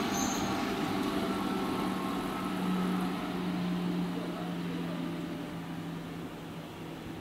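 Keihan 6000-series electric train running away after passing through the station at speed: wheel and running noise with a steady motor hum, fading as it goes, the hum dropping slightly in pitch about halfway.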